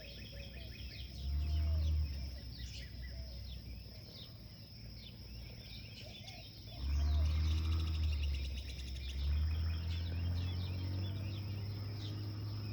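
Many birds chirping and calling over each other, with a steady high hum beneath. A low rumble swells briefly about a second in and again from about seven seconds on, and is the loudest sound.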